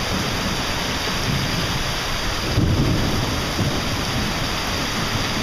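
Heavy rain pouring onto a flooded street: a steady hiss over a low rumble that swells briefly about two and a half seconds in.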